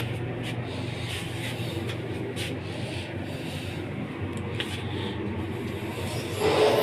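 Lift (elevator) car in motion: a steady low mechanical hum with light rubbing and a few faint clicks.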